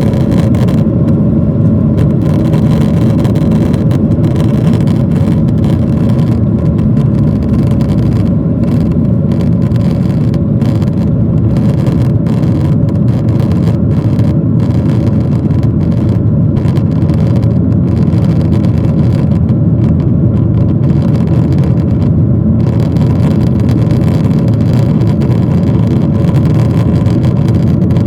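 Steady engine noise heard inside the cabin of a Boeing 737-800, its CFM56-7B turbofans at high thrust during takeoff and climb-out. It is a loud, even noise with a faint steady hum.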